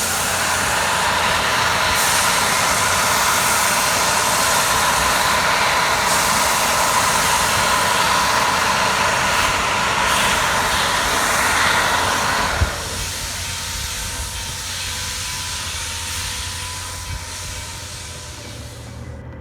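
Steam locomotive hissing as it lets off steam, a loud steady hiss with a whistling tone in it. About twelve seconds in there is a sharp clank and the hiss drops to a quieter, fading release.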